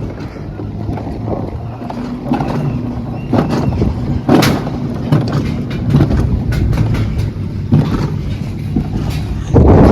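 Ride car running fast along its track: a steady low rumble with frequent loud, irregular knocks and rattles, the loudest near the end.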